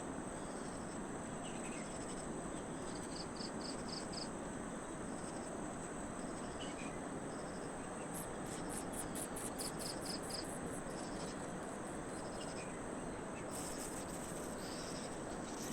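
Insects chirping, crickets among them: a steady high-pitched drone with short repeated chirp groups, and a run of fast pulsing trills about halfway through.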